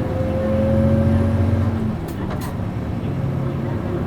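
Bus's MD92TJ diesel engine pulling under acceleration, its note rising steadily. About halfway in the note drops away, with two brief sharp noises, as it changes gear on the five-speed manual gearbox, then runs on at a steady, lower note.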